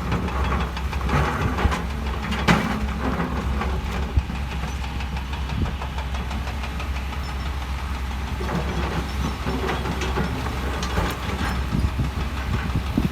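Heavy diesel construction machinery running steadily, with a deep engine hum, and two sharp knocks or clanks about two and a half and four seconds in.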